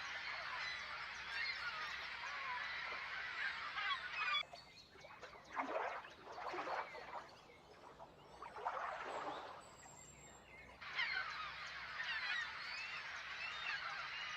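A large flock of birds calling, many short overlapping calls massed together. About four seconds in the chorus cuts out, leaving a few separate louder calls, then it comes back abruptly near the end.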